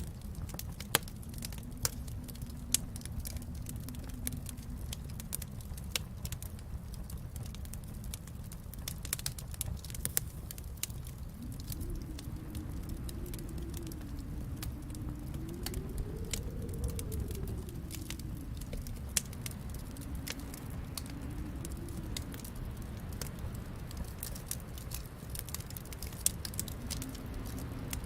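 Wood fire crackling in a fireplace: a steady stream of small crackles with several louder pops scattered through, over a low rumble that swells and fades slowly.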